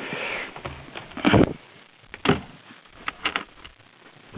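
A few short knocks, about a second apart, then a quick run of clicks.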